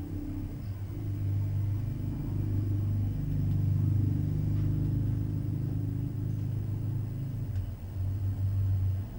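CNC router milling letters into pine: the spindle and axis motors give a low, steady hum that grows louder and eases off as the cut moves, with a short dip near the end.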